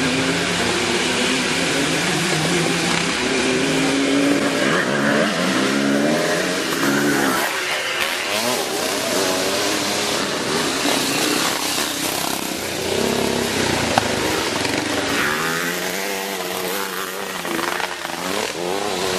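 Several classic twinshock motocross motorcycles running, their engines revving up and down and overlapping as the bikes ride.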